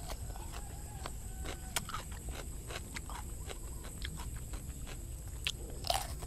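Crunchy chewing of raw cucumber close to the microphone: a quick run of crisp clicks and crackles, a few each second, with a fresh crunchy bite near the end, over a steady low rumble.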